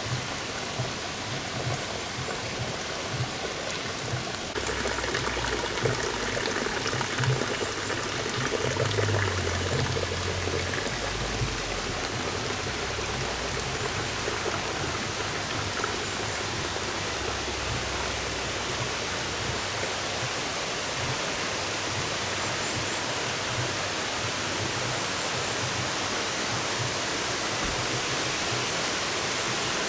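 Steady rush of flowing water from a mountain stream and waterfall, growing louder about four seconds in, with occasional low rumbles in the first two-thirds.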